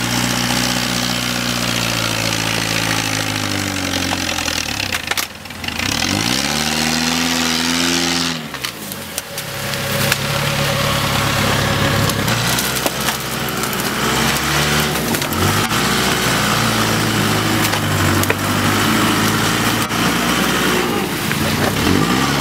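Off-road jeep's engine revving up and down over and over, its pitch rising and falling in long sweeps as the driver works through deep mud.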